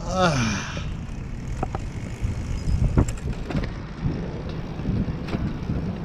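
Road and wind noise from riding a recumbent bike on a city street, a steady low rumble with scattered clicks, as a car passes close by. A short falling vocal sound comes right at the start.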